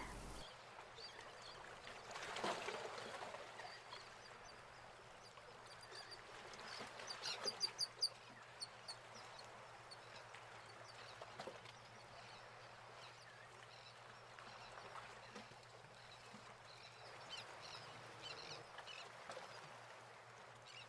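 Faint outdoor ambience with scattered high, short bird chirps. A quick run of chirps and a few soft knocks come about seven seconds in.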